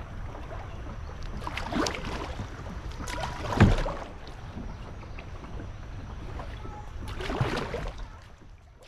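Kayak paddle strokes dipping and splashing in the river, three strokes, the middle one loudest, over a steady low rush of wind and water.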